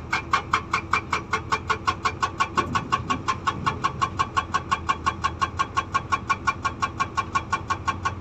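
Hydraulic rock breaker (SAGA 288H) on a Komatsu PC200 excavator hammering stone, a steady rapid rhythm of about five to six blows a second, over the excavator's engine running.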